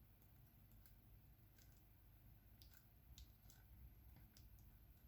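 Faint, irregular light clicks of diamond painting drills being picked up with the applicator pen and pressed onto the canvas.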